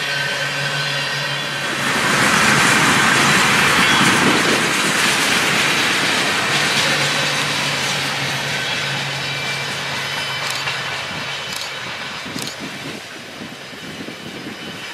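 Freight train of tank cars rolling past, steel wheels on the rails making a steady rattling noise. It swells about two seconds in, then fades as the last cars go by, with a few sharp clicks near the end.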